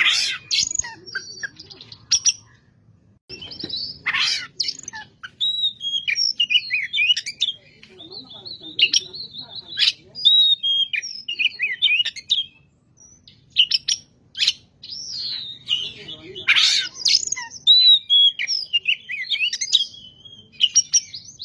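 Oriental magpie-robin (kacer) in full song: a long, varied run of whistled phrases and glides, broken by harsh rasping notes at the start, about four seconds in and again about sixteen seconds in.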